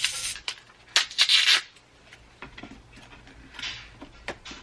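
Rubbing and scraping of a small advent-calendar item being worked out of its foam insert. There are short bursts: one at the start, a louder, longer one about a second in, and a fainter one later.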